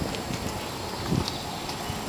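A few dull low thumps over steady background noise, the clearest about a second in.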